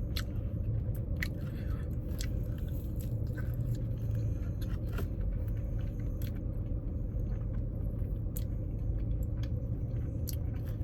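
A person chewing a mouthful of chewy matcha mochi donut, with scattered soft mouth clicks, over a steady low hum inside a car.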